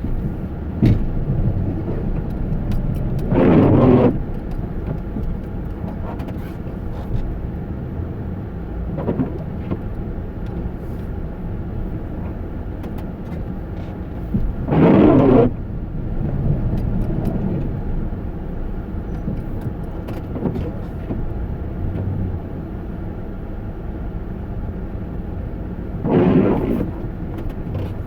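Steady low rumble of a running vehicle, with three short, louder bursts of noise about eleven seconds apart.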